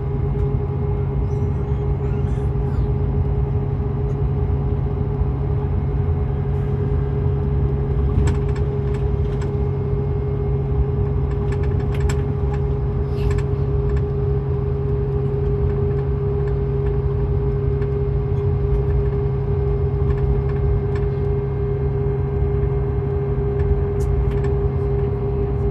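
Scania K410EB6 coach running at a steady speed: a constant low drone with a steady higher whine over it, unchanging in pitch, and a few faint rattles.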